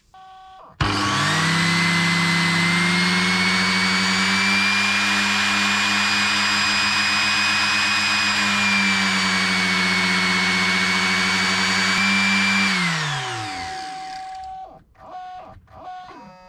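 The newly fitted replacement pump in an Aqualisa Digital shower processor starting up and running steadily with a whine, spinning properly and fast, which shows the burnt-out pump fault is cured. Near the end it switches off and spins down, its pitch falling.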